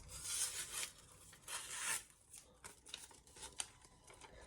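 A freshly stropped Santoku knife edge slicing through thin toilet tissue as a sharpness test: two hissing slicing strokes in the first two seconds, then light rustles and small clicks of the paper being handled.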